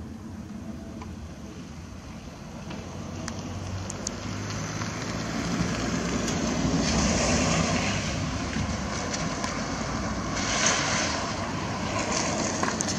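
Distant roar of a jet airliner passing high overhead at cruising altitude, a steady rushing rumble that slowly swells and is loudest about halfway through.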